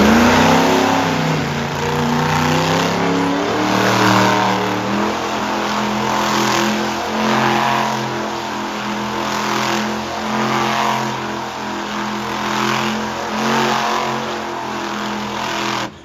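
Monster truck engine running at high revs while the truck spins donuts. The engine swells louder roughly every second and a half as the truck circles, and the sound cuts off abruptly near the end.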